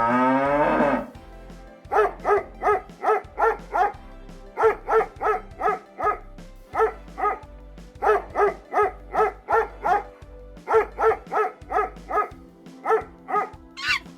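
A dog barking in quick bouts of five or six sharp barks, about three a second, with short pauses between bouts. A cow's moo ends in the first second.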